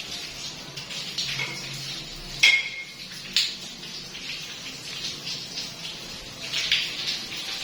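Hard clinks and knocks of tools and fittings during plumbing work on a water line, over a steady hiss. The loudest is a sharp, briefly ringing clank about two and a half seconds in, with further knocks about a second later and near the end.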